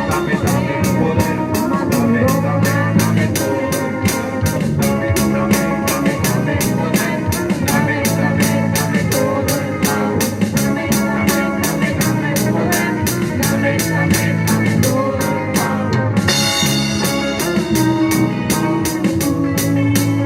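Live band playing an instrumental passage: a drum kit keeps a steady beat under keyboard or organ chords and other instruments.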